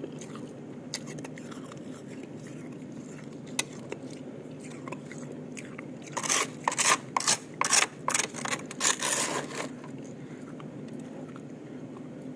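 Ice cubes being bitten and crunched between the teeth: a few faint clicks, then a quick run of loud, sharp crunches lasting about three and a half seconds about halfway through, over a steady low hum.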